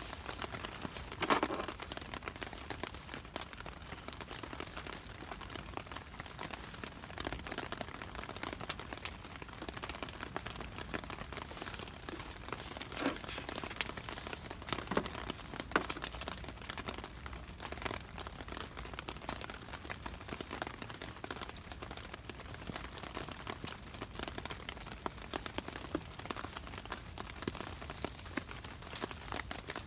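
Steady rain pattering, with many irregular drops ticking sharply on a surface close by.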